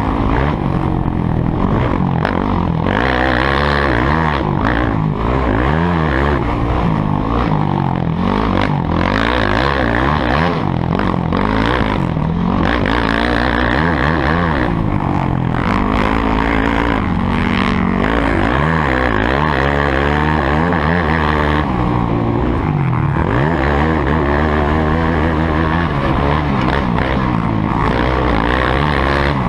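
Motocross bike engines revving up and down again and again, several at once, their pitch rising and falling as they accelerate and shift.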